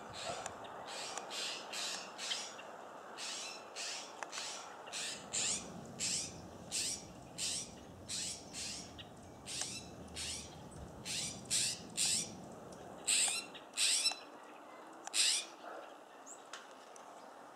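Small songbirds giving a long run of short, sharp high call notes, about one to two a second, irregularly spaced, stopping shortly before the end.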